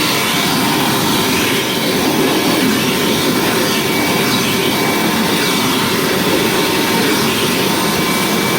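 Hoover WindTunnel Plus bagged upright vacuum running steadily on hose suction with its dusting brush: a rush of air with a faint steady whine on top.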